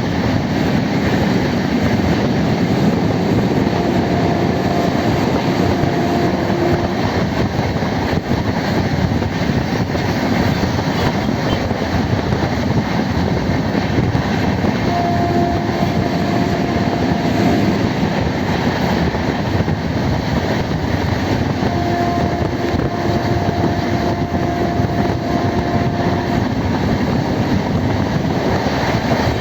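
Passenger train running: a steady loud noise of wheels on track, with a pitched tone that comes and goes three times, for a few seconds each.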